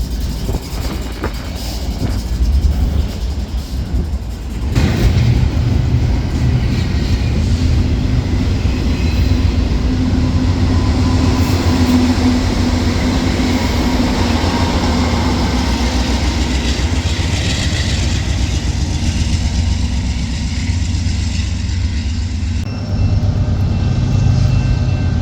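A train passing close by: a steady rumble of wheels on rail with a low hum, growing louder about five seconds in.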